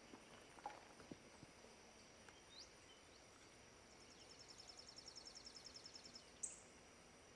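Near silence with faint high-pitched chirping from small animals outdoors: a short rising whistle a few seconds in, then a fast steady chirping trill of about nine pulses a second for around two seconds, and a single sharp high chirp near the end.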